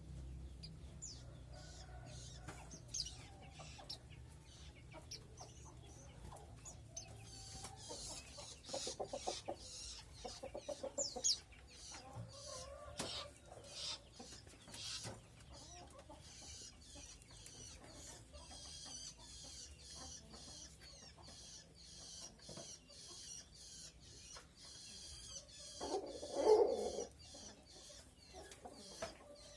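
Faint, high, thin chirps and fast twittering of white-eyes (pleci) in a breeding cage, with lower clucking sounds a couple of times, the loudest near the end.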